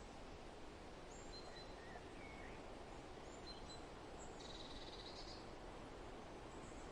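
Steady wind rustling through forest trees, with faint, scattered songbird chirps and a short buzzy trill about halfway through.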